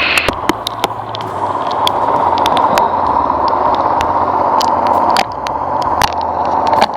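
Heavy rain pelting down, a dense steady hiss with many sharp ticks of single drops striking close by, over the steady low hum of the boat's motor.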